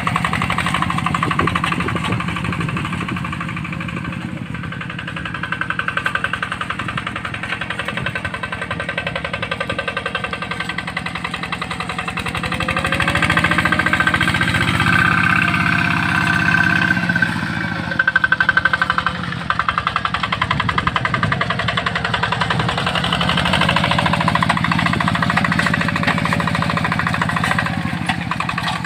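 Yanmar Bromo Pro hand tractor's single-cylinder diesel engine running with a fast, even chugging. Its speed rises and falls a few times, loudest in the middle of the stretch.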